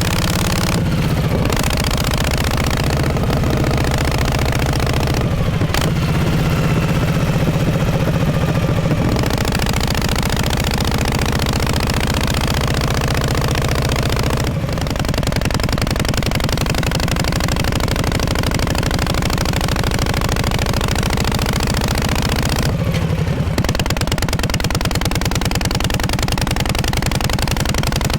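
Exhaust of a 1948 Harley-Davidson Panhead V-twin running steadily. The note eases off and picks up again several times, about 1, 9, 14 and 23 seconds in.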